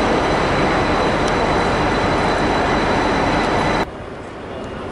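Great Western Railway Intercity Express Train running, a loud steady rumble and hiss with faint high whines above it. It cuts off abruptly about four seconds in, giving way to a much quieter outdoor background.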